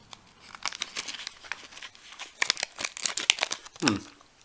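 Plastic food wrapper crinkling and crackling as it is handled, in irregular bursts that grow denser in the second half. A brief falling vocal sound, like a short "hmm", comes near the end.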